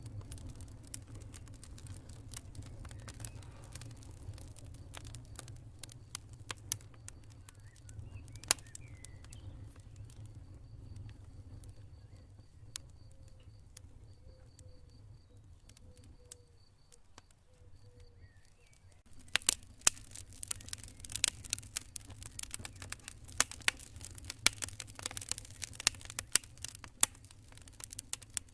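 Campfire crackling with sharp pops over a steady low rumble; the crackling grows much denser about two-thirds of the way through. A faint high cricket chirping pulses in the middle.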